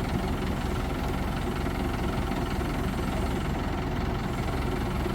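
A crane's diesel engine running steadily.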